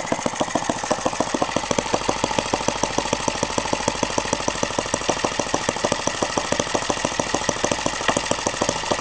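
LASER 80 model diesel engine, a single-cylinder four-stroke, running steadily at low speed on its first run, its firing strokes coming as sharp even beats about ten a second.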